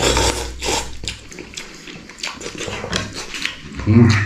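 A man eating noisily, with slurping and chewing sounds, and a short throaty grunt near the end.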